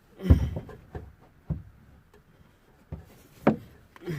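A few scattered knocks and thumps of things being handled and set down, the two loudest about a third of a second in and about three and a half seconds in, with lighter taps between.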